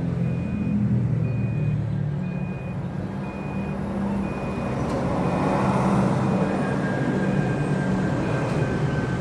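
A reversing alarm beeping about once a second over a running vehicle engine, typical of a truck backing up. The engine noise swells about halfway through.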